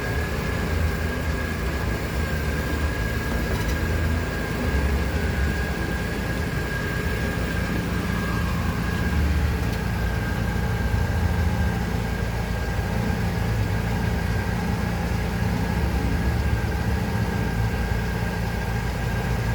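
Mercedes-Benz A 160 (W168) engine idling steadily, with a thin, steady high whine over the low running note.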